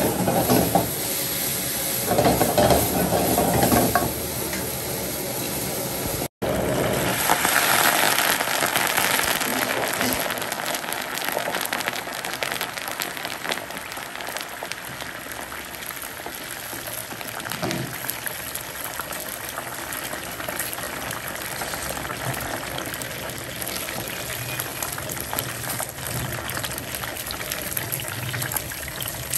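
Food frying in a hot pan, sizzling steadily throughout; the sound drops out for an instant about six seconds in.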